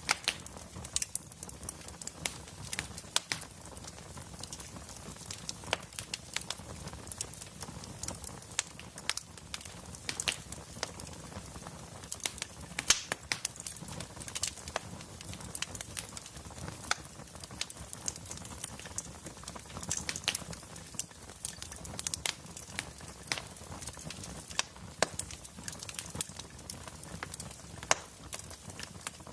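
Wood fire crackling: burning logs give off irregular sharp pops and snaps, several a second, over a steady low hiss and rumble of the flames.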